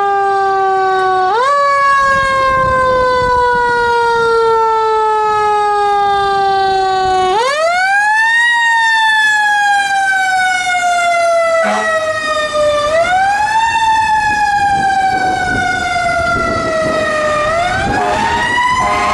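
A fire engine's mechanical-style siren winding up and then slowly coasting down in pitch. It is wound up again four times, every four to six seconds.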